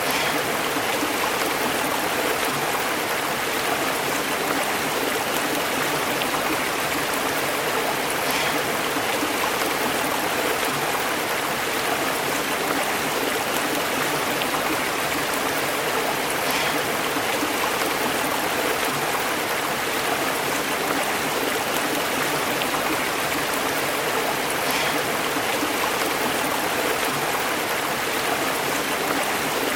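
A stream flowing and burbling over rocks, a steady, unbroken rush of water.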